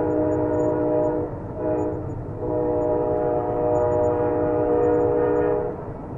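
Train horn sounding a chord of several notes: one blast breaks off about a second in, a short blast follows, then a longer blast that stops near the end. A steady rumble of the train runs underneath.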